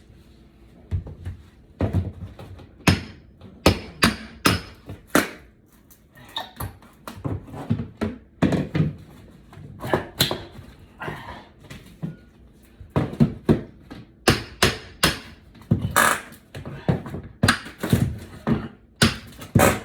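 Irregular knocks and thuds of a hammer and hatchet working wooden baseboard trim loose from the wall, with clatters of wood being handled.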